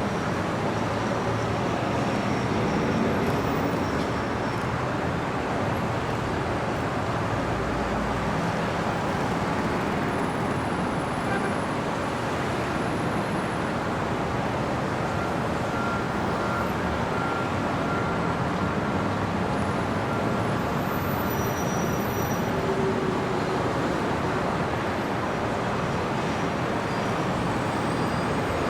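Steady city street traffic noise: a continuous, even wash of cars and other vehicles.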